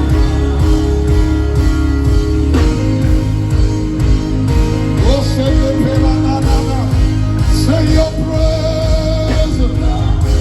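Live gospel worship music: a band playing sustained chords over a steady low beat, with a voice singing long, sliding notes from about halfway through.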